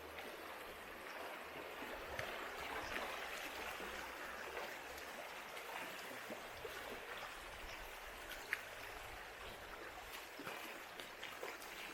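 River water flowing steadily over rocks, with a sharp tick about eight and a half seconds in and a few lighter clicks near the end.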